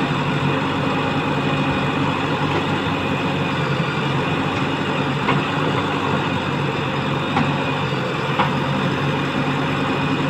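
Heavy diesel engine running steadily at an even speed, with three short sharp knocks in the second half.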